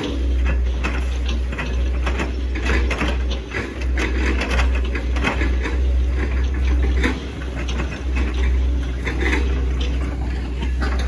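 Hitachi ZX110 MF excavator's diesel engine running with a steady low rumble, overlaid by rapid irregular cracking and clattering, the sound of the machine chopping up an oil palm trunk.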